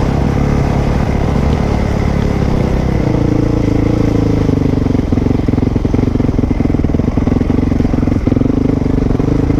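Dirt bike engine running steadily while being ridden, its note changing about three seconds in, with light clattering during the second half.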